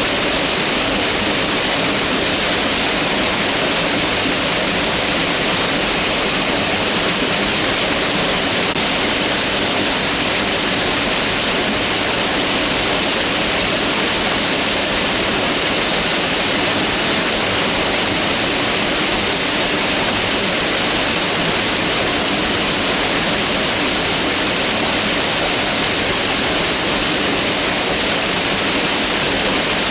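Mountain river rushing over rocks: a loud, steady, unbroken hiss of flowing water.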